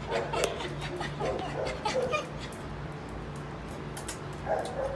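Shelter dogs in their kennels giving short whining calls, a cluster in the first two seconds and another near the end, over a steady low hum.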